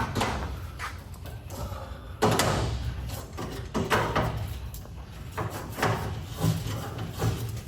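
Irregular clanks and rattles of a garage door and its metal hardware being handled, about half a dozen knocks spread unevenly through.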